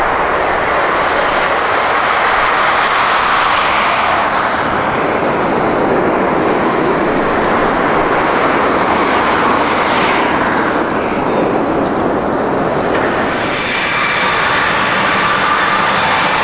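Jet airliner's engines passing close by: a loud, rushing noise that swells and eases, with a steady, slightly rising whine coming in during the last few seconds.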